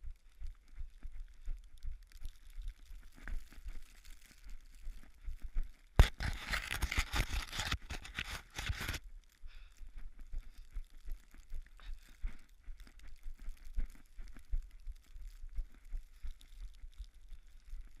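Running footsteps in snow and a body-worn camera jostling, irregular soft thumps throughout. About six seconds in a sharp click starts a loud rustling scrape that lasts about three seconds.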